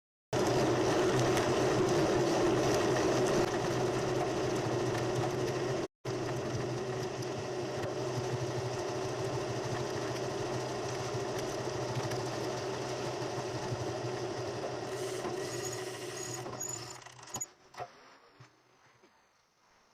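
A vehicle engine running steadily, heard from inside the vehicle with road noise. It cuts out abruptly for an instant about six seconds in, then fades away over the last few seconds, leaving a few faint clicks.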